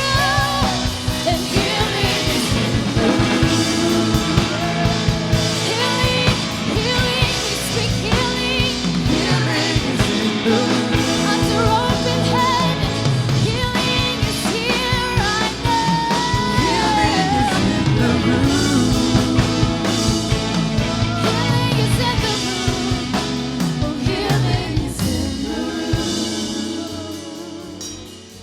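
Worship song with a full band, drum kit and singing, fading out near the end.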